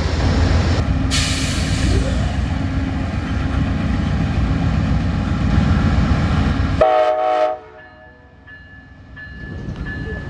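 Amtrak passenger train running through with a loud, steady low rumble. About seven seconds in, a short blast of its multi-note horn is cut off abruptly, leaving faint high steady tones.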